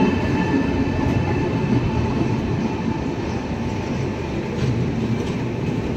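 Passenger train's coaches rolling along the platform as the Malwa Express pulls into the station, a steady rumble of wheels on the rails.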